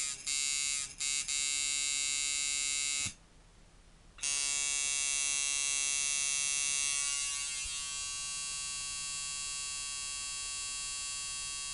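Rebuilt Emerald Iron coil tattoo machine, set up as a liner with a long throw, buzzing on about 5.5 volts. It runs for about three seconds with two brief stutters, stops for about a second, then starts again and runs steadily, getting slightly quieter past the middle.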